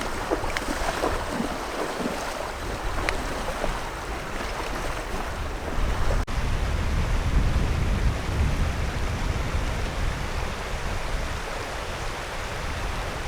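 A high, fast river rushing steadily, with wind buffeting the microphone in a low uneven rumble.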